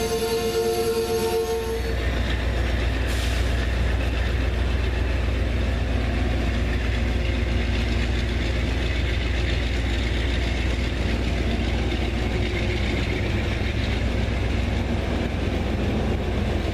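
Locomotive air horn sounding a chord of several notes that cuts off about two seconds in, followed by the steady low rumble of a diesel train passing.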